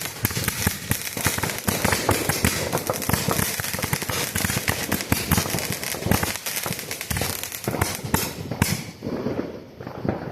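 Multi-shot consumer firework cake going off: dense, rapid crackling and popping that thins out and dies down about nine seconds in.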